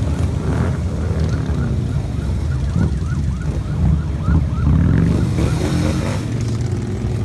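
Motorcycle engines rumbling as a stream of bikes rides past, swelling louder about five seconds in as engines rev. A quick run of short, rising chirps sounds over the engines in the middle.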